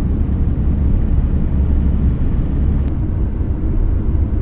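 Steady low rumble of engine and road noise heard from inside a car's cabin.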